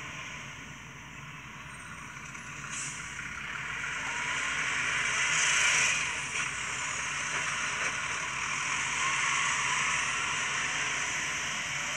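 Garbage truck noise: a steady hiss that swells to a peak about six seconds in, then holds a little lower.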